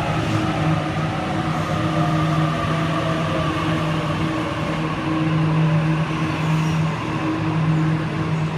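Sydney Trains Waratah electric train easing to a stop at the platform, its motors giving a whine that falls slowly in pitch over the first few seconds, over a steady low electrical hum that comes and goes.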